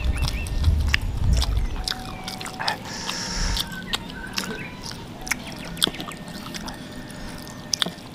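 Close-up mouth sounds of chewing spicy balado tofu with rice: many short wet smacks and clicks. The chewing is heavier in the first second or two, then lighter.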